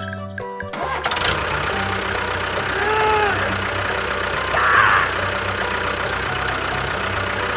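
A small engine runs steadily with a rough, rattling note, starting about a second in as a short tune stops. A few brief rising-and-falling tones sound around three seconds in, and there is a louder swell near five seconds.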